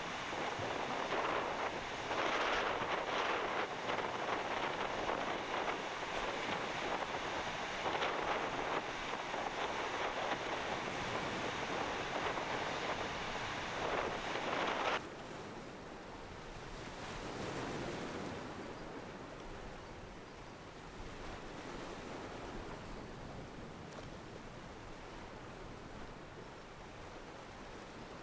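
Wind buffeting a GoPro's microphone along with water rushing past a planing windsurf board: a loud, gusty rush of noise. About halfway through it cuts off suddenly to a quieter, duller hiss.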